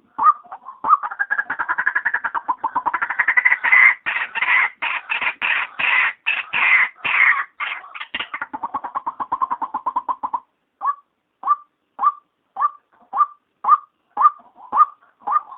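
Female white-breasted waterhen calling, played as a lure: a long, rapid, harsh chattering that climbs in pitch, then a fast run of notes, then single short notes repeated about twice a second.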